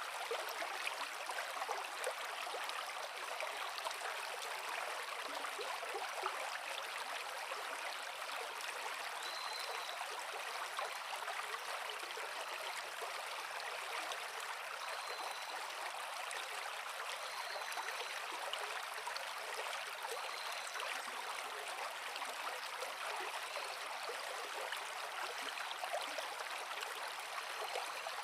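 Forest creek flowing over rocks, a steady rushing babble of water. Through the middle, a faint short high chirp recurs every two or three seconds.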